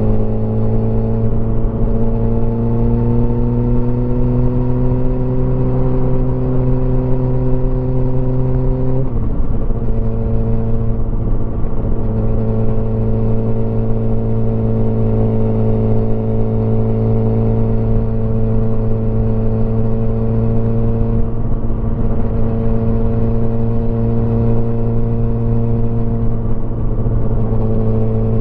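Motorcycle engine pulling steadily under load with slowly rising revs. About a third of the way in the pitch drops sharply with an upshift, and the engine then runs at a nearly steady cruising speed.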